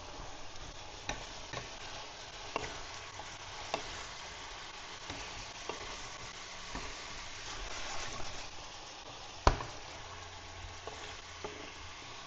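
Chicken and vegetables for a curry frying in a pan, sizzling steadily while being stirred, with a utensil clicking against the pan now and then and one sharp knock about three-quarters of the way through.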